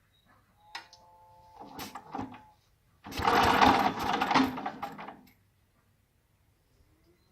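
ZiD-4.5 single-cylinder engine on a homemade mini tractor being started: a click and a short first try about a second in, then a louder burst of rapid pulsing about three seconds in that lasts about two seconds and stops, the engine not keeping running.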